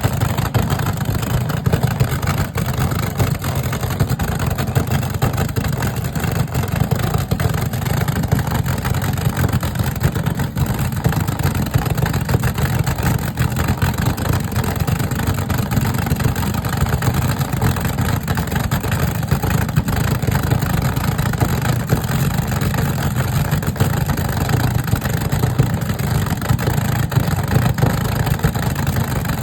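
Car engines running in a steady low rumble, with no single car standing out.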